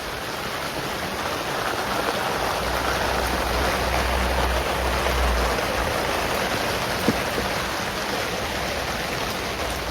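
Steady rain falling, a little heavier for a few seconds in the middle, with a single sharp tick about seven seconds in.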